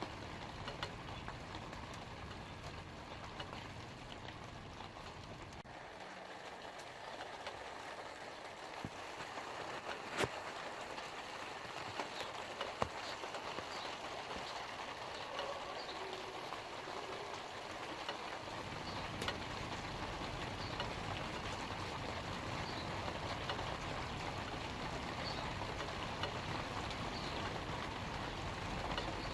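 Light rain falling on leaves: a steady patter with now and then a single louder drop. A low rumble underneath drops away early on and returns after the middle.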